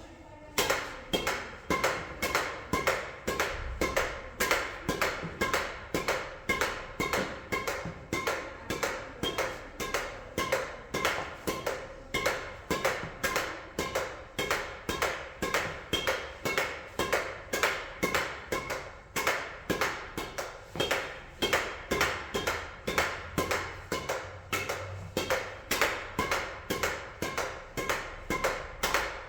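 Steady rhythmic strikes, about two a second, each with a short pitched ring.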